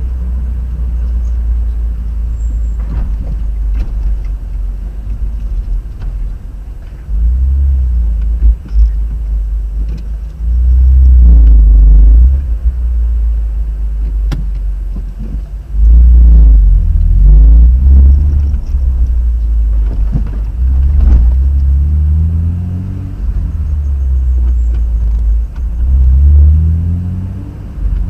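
Car driving: a heavy low road rumble throughout, with the engine note rising several times as the car accelerates, loudest from about 10 to 12 seconds in and again around 16 to 18 seconds.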